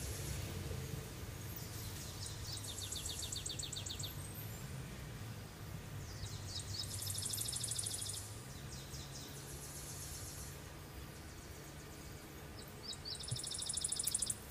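A songbird sings a short, fast trill about four times, each lasting a second or so, over a low steady background hum.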